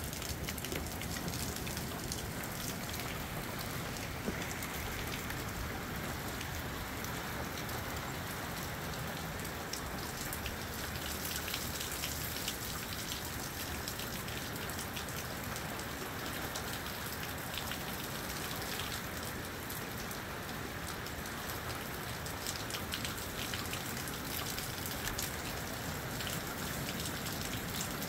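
Steady moderate rain falling, with many separate drops ticking against a hard surface.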